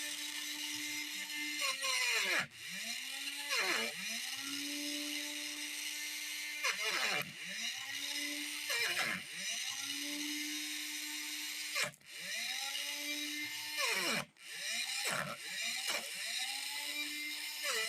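Small DC motor of a homemade chilli cutter / mini mixer grinder running at a steady whine. About eight times its speed drops sharply and winds back up, as it is pulsed on and off or bogs under load.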